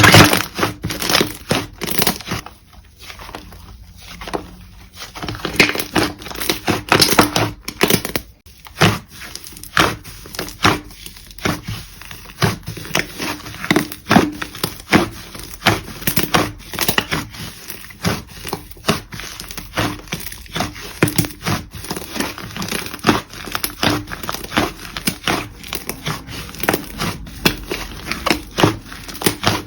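Slime being pressed, stretched and poked by hand, giving a dense, irregular run of sharp crackling clicks and pops.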